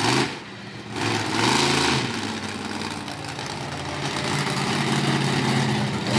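Monster truck engine revving about a second in, then held at steady high revs.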